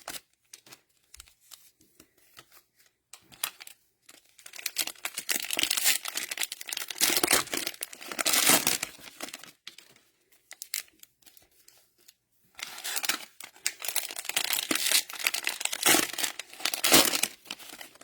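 Cellophane-wrapped trading card packs crinkling as they are handled and sorted, in two long spells of crackling plastic with quiet gaps between.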